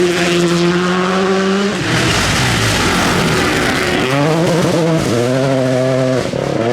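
Rally car engine at high revs under hard throttle. It holds steady, drops away a little under two seconds in, then revs up again about four seconds in, with short breaks for gearshifts near five and six seconds.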